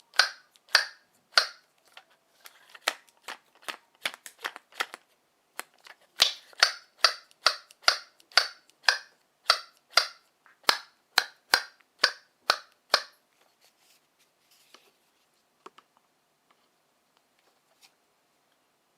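Squeaky piko-piko toy hammer being struck over and over, each hit a short sharp squeak, about two a second. A softer run of hits gives way to a loud, even run that stops about two-thirds of the way through, followed by a few faint taps.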